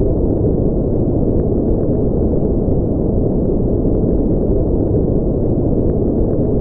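Steady, unchanging sleep noise: a deep, muffled hiss with its weight in the low range and no high hiss, closer to brown noise than to true white noise.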